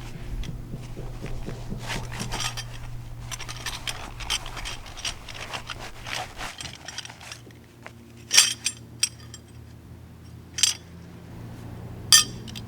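Gear being handled: scraping and rustling, then four sharp clinks, like metal or glass knocking together, over a steady low hum.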